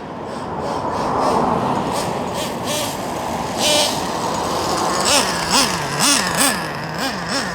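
Small nitro engine of a Traxxas Revo RC monster truck, the 3.3, revving in quick throttle blips, its pitch rising and falling several times in the second half, with a few sharp clicks and knocks.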